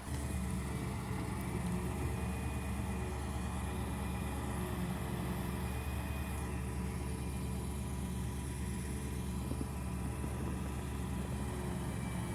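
Heavy diesel engine running steadily at a constant speed, a low even hum with no revving.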